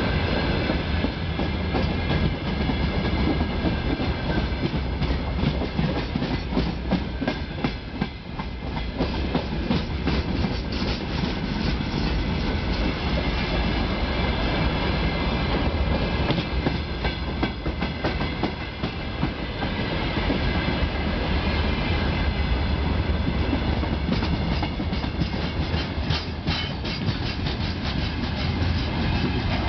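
Freight train of open steel gondola wagons rolling past close by: a steady rumble of steel wheels on rail, with a constant clickety-clack of wheels crossing rail joints.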